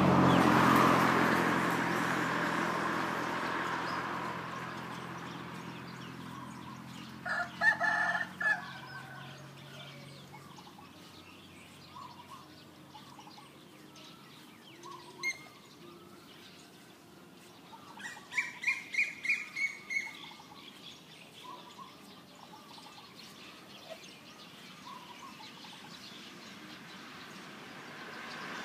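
Birds calling in a farmyard: a short burst of calls about a quarter of the way in, a quick run of about eight calls about two-thirds of the way through, and faint scattered chirps. Under them at the start, a low steady hum fades away over the first several seconds.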